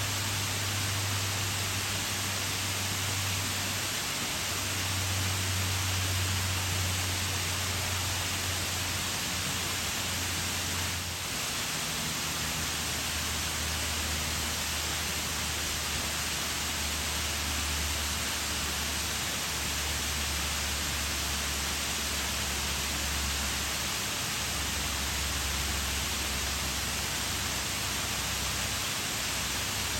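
Waterfall pouring: a steady, dense rush of falling water with a low rumble underneath.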